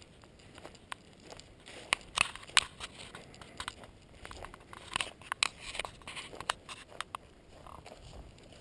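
A hiker's footsteps crunching and rustling through dry pine-forest litter: irregular sharp crackles, densest from about two to six seconds in.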